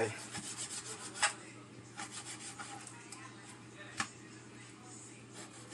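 A kitchen knife sawing and scraping through meat for jerky, a faint rasping with two sharp knocks on the board, about a second in and about four seconds in.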